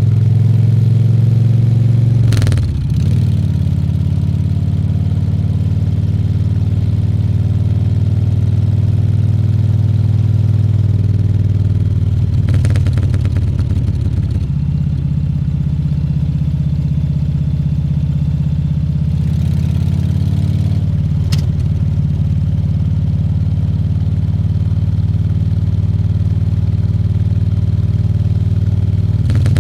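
Harley-Davidson Fat Bob 114's Milwaukee-Eight 114 V-twin engine running steadily on the ride. Its note shifts briefly about two and a half seconds in, again around the middle, and again about two thirds through, with a short sharp click just after the last change.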